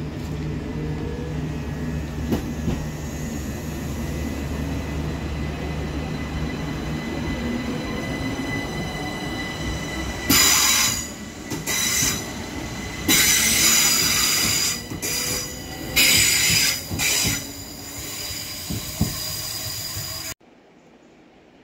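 Electric multiple unit pulling away from the station, its motors humming low and steady. From about ten seconds in its wheels squeal loudly and high-pitched in several separate bursts as the carriages pass. Near the end the sound cuts off abruptly to a quiet background.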